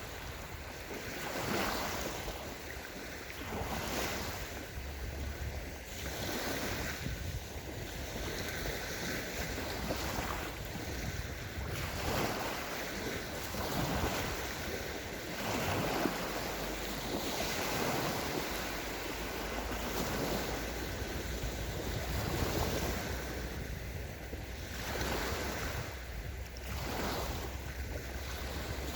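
Small sea waves breaking and washing onto a sandy shore, one swell after another every couple of seconds. A low wind rumble sits on the microphone underneath.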